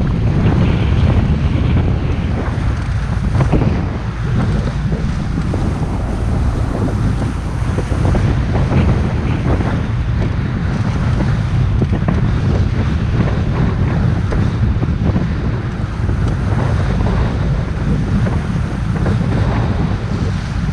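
Heavy wind rushing over the microphone of a motorboat under way, with water rushing past the hull and the boat's motor underneath, a steady low rumble throughout.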